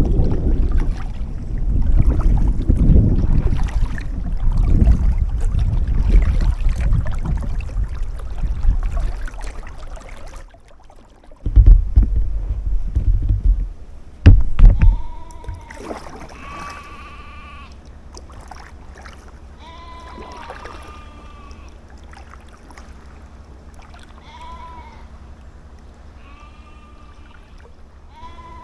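Strong wind buffeting the microphone, with two short loud gusts near the middle. After that the wind drops and sheep bleat repeatedly, one call every few seconds.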